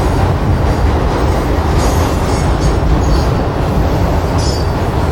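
Freight train cars rolling steadily past on the rails, with a dense rumble of wheels and short high squeals of steel wheels on rail about two seconds in and near the end.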